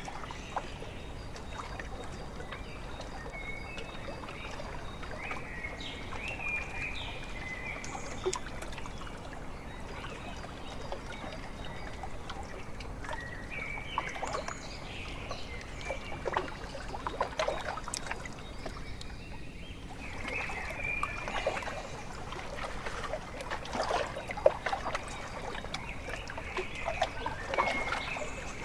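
Small lake waves lapping and splashing at the shore in irregular clusters over a steady hiss, with birds giving short calls now and then.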